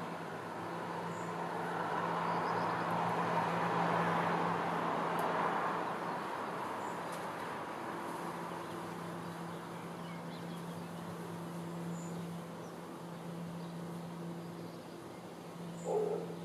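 A passing vehicle's noise swells and fades over the first six seconds above a steady low hum. A short buzz near the end.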